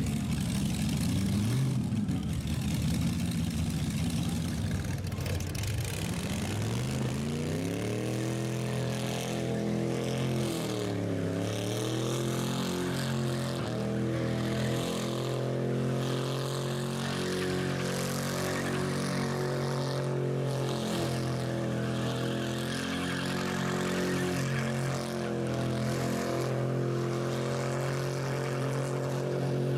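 Rat rod engine revving during a burnout: rough and uneven at first, then climbing to high revs, dipping briefly, and held at a nearly steady high pitch, with a steady hiss above it.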